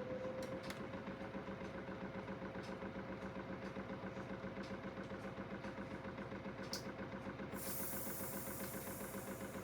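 Small direct-drive washing machine spinning its drum at a steady speed: a steady motor whine with a rhythmic pulse of about six beats a second. A burst of hiss comes in near the end.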